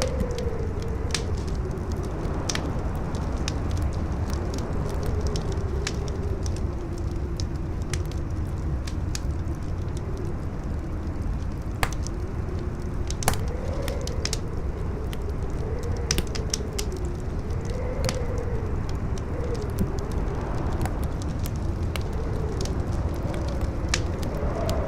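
Campfire crackling, with scattered sharp pops and two louder ones about halfway through, over strong wind that howls with a wavering pitch and a steady low rumble.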